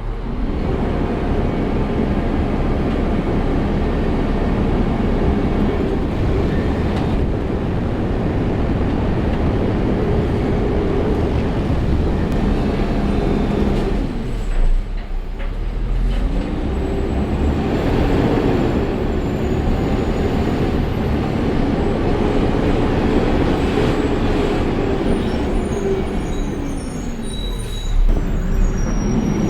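Peterbilt 520 garbage truck driving, its diesel engine running steadily under load. About halfway through the engine note dips briefly, then rises and falls in pitch several times.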